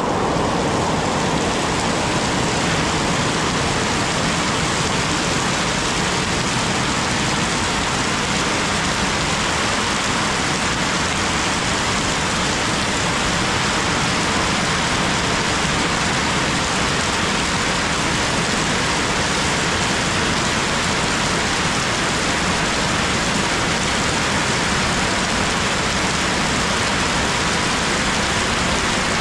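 Heavy rain falling steadily on trees, grass and muddy, puddled ground, an even unbroken hiss.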